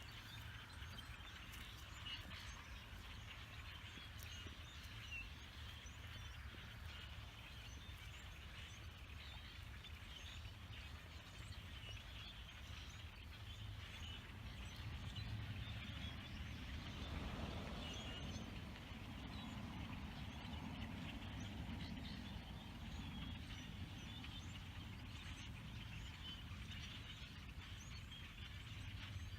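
A large flock of black birds calling and chattering all at once, a dense, faint, continuous din of short calls. A low rush swells up about halfway through and fades again, under a steady low rumble.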